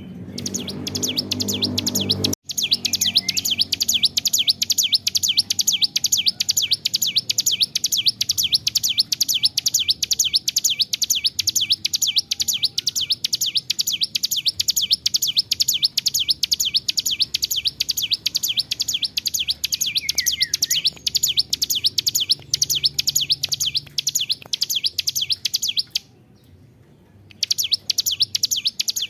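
Ciblek gunung (a prinia) singing a long, unbroken song of very fast, evenly repeated high notes, stopping for about a second near the end and then going on again.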